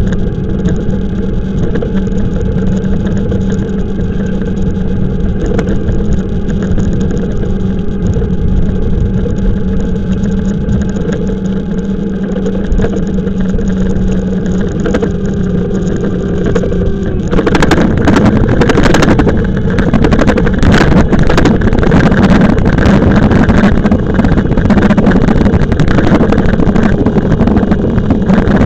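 Riding noise on an e-bike: a steady hum over wind and road noise. About two thirds of the way through the hum stops abruptly, and louder wind buffeting with crackling on the microphone takes over.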